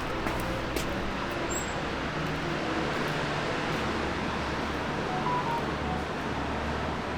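A vehicle engine running steadily with a low hum, amid a constant mechanical noise.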